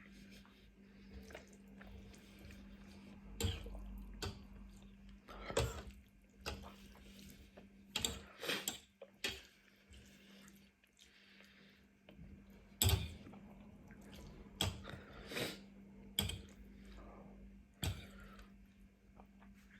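Close-miked eating sounds of spicy noodles and rice cakes: irregular wet mouth smacks, clicks and slurps, the loudest about two-thirds of the way through, over a steady low hum.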